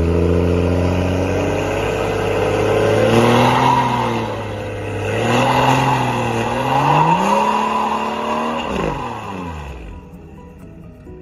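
BMW 340i's turbocharged 3.0-litre B58 inline-six revving in a burnout, the revs climbing and dipping about three times while the rear tyres spin and hiss on the asphalt. The revs fall away sharply near the end.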